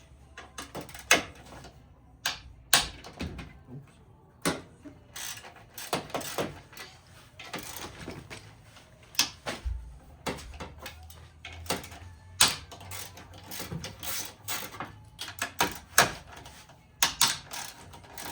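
Ratchet wrench clicking in short, irregular runs with metal tool clinks, working a 12mm bolt on an engine bracket; near the end comes a fast, even run of ratchet clicks.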